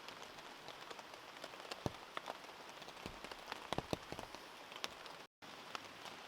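Rain falling steadily, with individual drops tapping irregularly close by; the sound cuts out for an instant about five seconds in.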